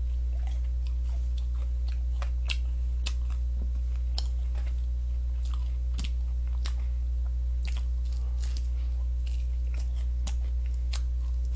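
Crispy fried chicken being bitten and chewed close to the microphone: irregular sharp crunches of the fried coating, a few every second. A steady low hum runs underneath.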